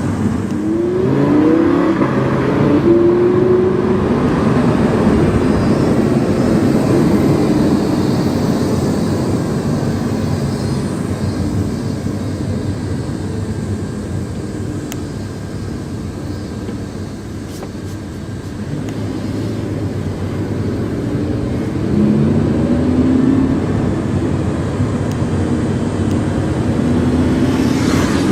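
Lamborghini Huracán's V10 through a PowerCraft aftermarket exhaust, heard from inside the car while driving: it revs up through the gears in the first few seconds, settles into a steadier, quieter cruise through the middle, then pulls up in pitch again about two-thirds of the way in and once more near the end.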